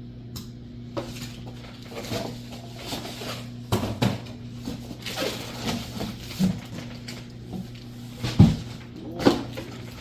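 Handling noises from unboxing a plastic RC truck and its transmitter: irregular clicks, knocks and rustles, with the loudest knock near the end, over a steady low hum.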